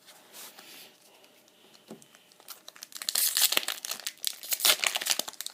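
Pokémon trading card booster pack's foil wrapper being torn open and crinkled, the dense crackle starting about two and a half seconds in.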